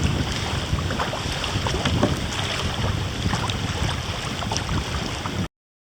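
Wind buffeting a camera microphone under a home-made furry windscreen, with small splashes and lapping of water around a kayak. It cuts off abruptly about five and a half seconds in.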